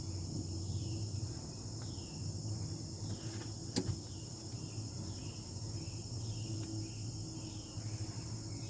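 Steady high-pitched chorus of crickets, with short repeated chirps over a low background hum. A single sharp click about four seconds in.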